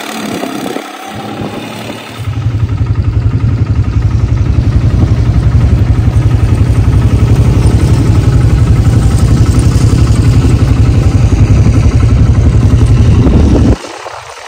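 Quad bike engine running close by, a loud, steady, rapid low pulsing that starts about two seconds in and cuts off suddenly near the end.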